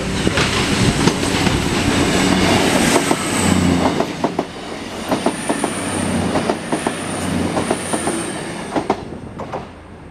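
CrossCountry Voyager diesel-electric multiple unit passing close by over a level crossing: its diesel engines running under a steady rumble, wheels clattering over the rail joints in quick irregular clicks, with a thin high whine above. The sound dies away shortly before the end as the train clears.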